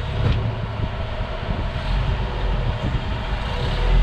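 Rock-crawling 4x4's engine running under load as the vehicle climbs a steep rock ledge, a steady low rumble that gets a little louder near the end.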